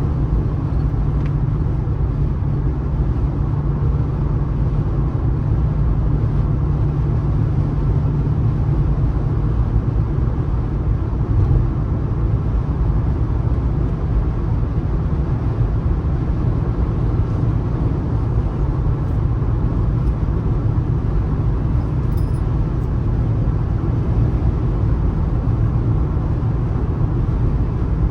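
Car driving at steady speed: a constant low road and engine rumble with no change in pace.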